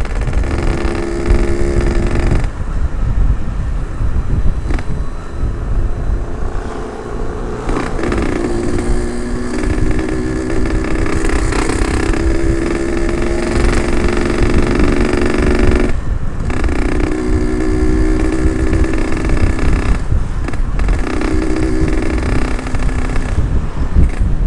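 Yamaha RX-King 135 cc ported two-stroke single engine running on the move, its steady note cutting out briefly four times as the throttle closes, over a heavy low rumble of wind.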